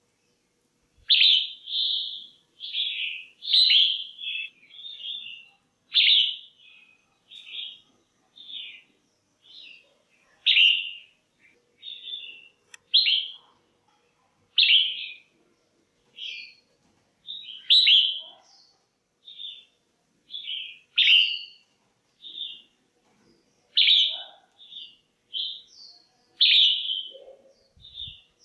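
Female red-whiskered bulbul calling: a steady string of short chirps, about one or two a second. These are calls used to stir up male bulbuls.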